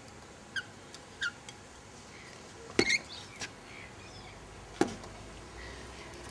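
Wild Australian native birds giving a few short chirps that fall in pitch, two about a second apart early on and a louder, sharper call near the middle, with a brief click later.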